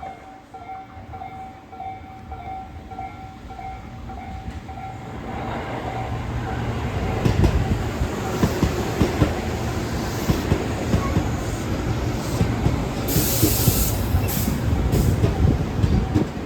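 Tobu 8000 series electric commuter train pulling into a station: a faint pulsing tone at first, then its rumble grows from about five seconds in, with wheels clacking over rail joints. A short high hiss comes about two-thirds of the way through.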